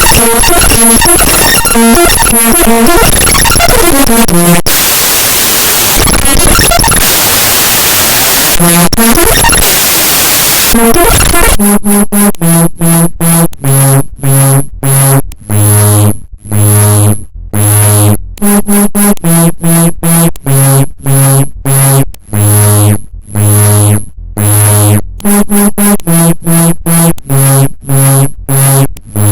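Raw binary data of the Windows explorer.exe program file played back as audio: loud, harsh digital noise and buzzing tones. A stretch of steady hiss comes a few seconds in. From about a third of the way through it turns into a rapid choppy stutter of short buzzing notes that step between a few pitches.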